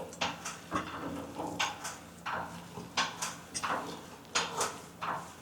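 About a dozen light knocks and clatters at irregular intervals, typical of gym equipment being handled.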